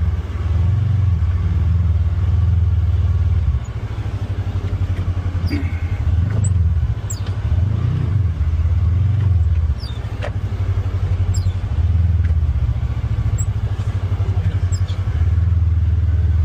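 Polaris Xpedition UTV engine pulling at low speed over rough ground, the throttle swelling and easing every second or two. A few sharp knocks and clatter come through along the way.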